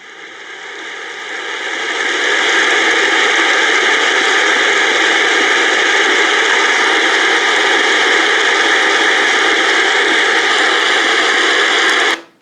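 Travel white noise machine playing its rain sound through its small speaker, a steady hiss. The volume is turned up over the first couple of seconds, then holds loud and stops abruptly near the end.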